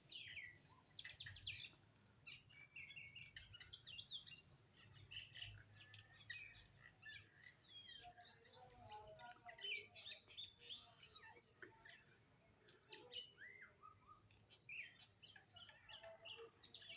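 Faint birds chirping in the background: many short, quick chirps and twitters, one after another, over a low hum.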